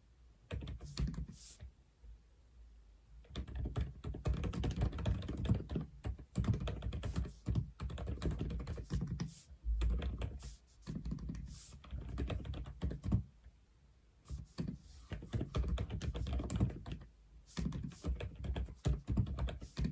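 Typing on an Aula F87 mechanical keyboard: runs of quick key presses with short pauses, a brief burst about half a second in, then steady typing with a lull around two-thirds of the way through.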